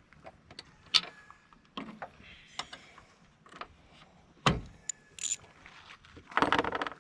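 Metal hand tools and latch hardware being handled: scattered clicks and clinks, one heavy knock about halfway through, and a short rattling run near the end.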